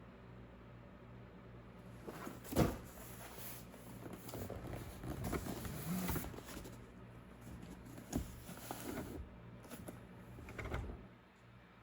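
A laptop's shipping box being handled and opened: a sharp thump about two and a half seconds in, then rustling and scraping of the packaging, with a few more knocks, over a low steady hum.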